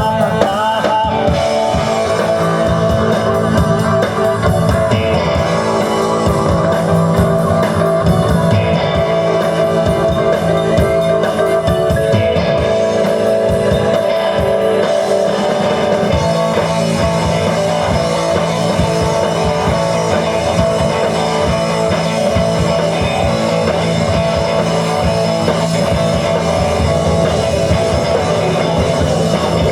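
Live rock band playing an instrumental passage: electric guitar over bass guitar and drum kit, without vocals.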